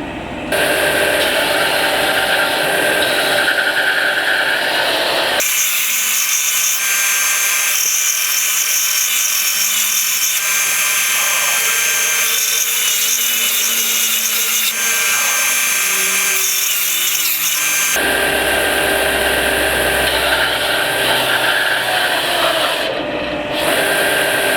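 Ryobi RBDS4601G belt and disc bench sander running, with its belt set upright, in a steady, loud whir. About five seconds in the sound abruptly changes and loses its low rumble, then switches back after about 18 seconds.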